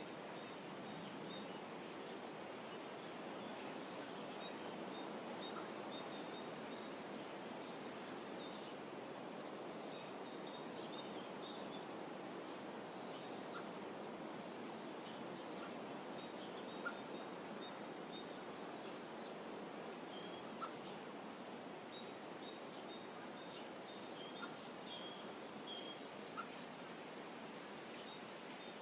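Birds calling in short clusters of high chirps and trills every few seconds, over a steady soft outdoor hiss, with a few faint ticks.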